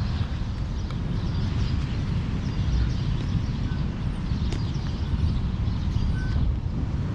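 Wind buffeting the microphone: a steady, rapidly fluttering low rumble.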